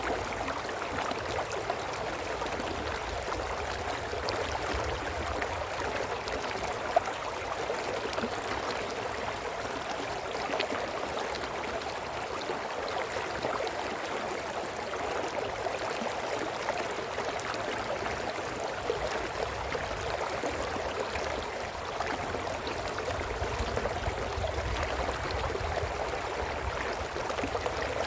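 Brook flowing steadily, a continuous babble of running water, with a low rumble coming and going underneath.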